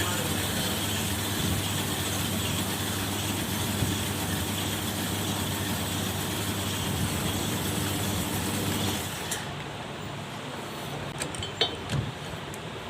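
A 70cc Honda motorcycle's single-cylinder engine running at a steady speed, then cutting off about nine seconds in. A few light clicks follow near the end.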